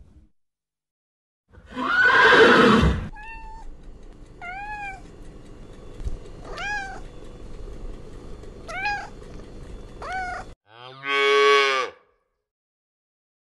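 A run of animal calls: a loud, harsh cry, then about six short, high calls that rise and fall in pitch, then a cow mooing once near the end.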